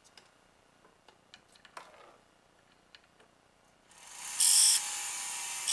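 A few faint handling clicks, then about four seconds in a small jeweller's rotary tool starts up and runs steadily with a high-pitched whir, its medium abrasive disc grinding down the solder bump on a necklace link.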